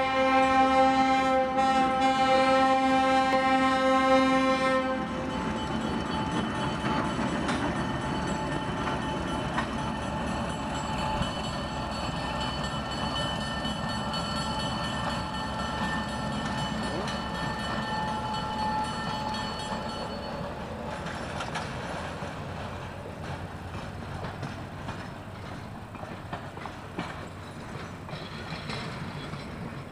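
A passenger train passing. The locomotive's horn sounds one long blast that stops about five seconds in, then the coaches roll by with a steady rumble of wheels on the rails, slowly fading.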